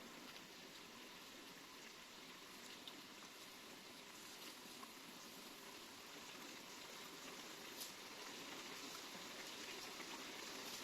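Near silence: the faint, steady trickle of a small forest stream.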